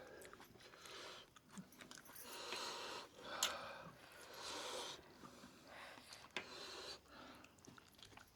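Close-miked eating of roast chicken: soft chewing and breathing, with a few small sharp clicks.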